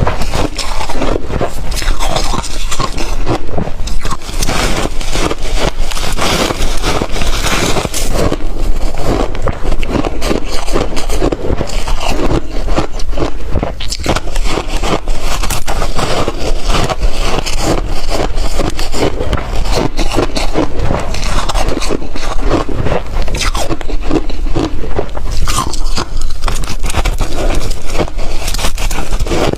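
Ice being chewed close to the microphone: a continuous, dense run of loud crunching and cracking as the cubes are bitten and ground between the teeth.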